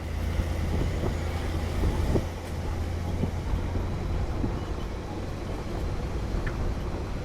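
Pickup truck driving on the road: a steady low rumble of engine and road noise with a few faint knocks.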